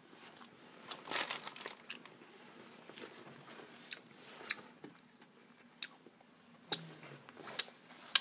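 A person biting into a submarine sandwich and chewing it: a crunch of bread about a second in, then scattered soft crunches and mouth clicks while chewing.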